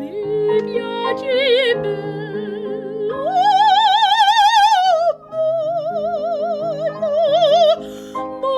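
Soprano singing an opera aria with wide vibrato over instrumental accompaniment, climbing about three seconds in to a long held high note, then falling to a lower sustained note.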